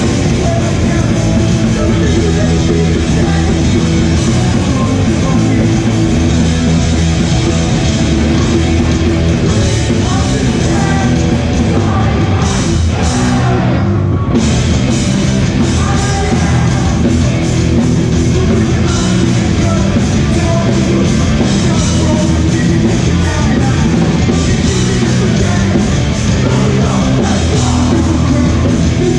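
Hardcore punk band playing live at full volume: distorted guitars, bass and drums, with shouted vocals. The cymbals drop out for a moment about halfway through.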